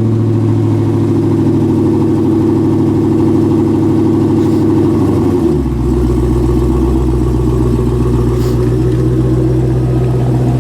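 Car engine just after starting, running at a fast idle; about five seconds in the idle drops to a lower, steady speed.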